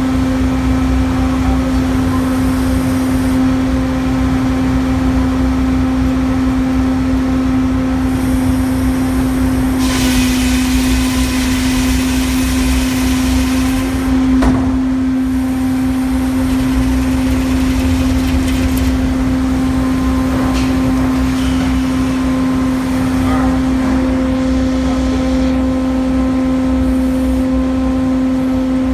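Hurdle sawmill's machinery running steadily with a constant mid-pitched hum over a low rumble. A louder rushing hiss joins it from about ten to fourteen seconds in, ending with a short knock.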